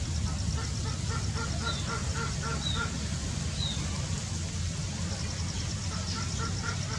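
Birds calling in series of short repeated notes, two or three a second, with a few brief high falling chirps, over a steady low rumble.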